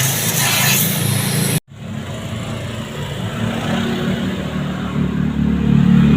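LG washing machine running: a steady hum with a hiss over it that cuts off abruptly about a second and a half in, then a lower hum that grows louder near the end.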